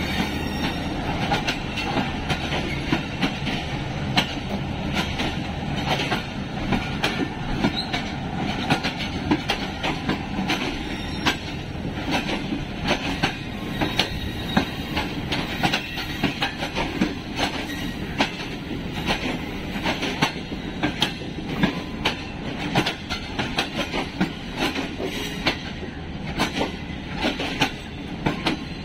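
Passenger train running along the track: a steady rumble with frequent sharp clicks of the wheels over the rail joints.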